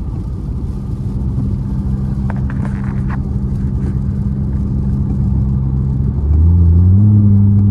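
Car engine and road noise from inside the cabin while driving; a steady engine hum rises in pitch and gets louder about six and a half seconds in as the engine picks up revs.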